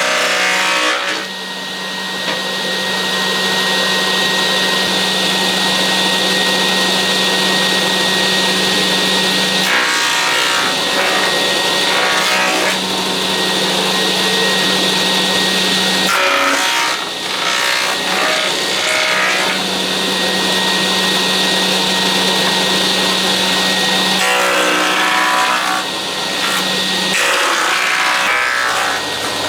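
Electric power tool cutting or shaping wood, running in long passes with a steady hum. It breaks off briefly a few times, about ten, sixteen and twenty-five seconds in.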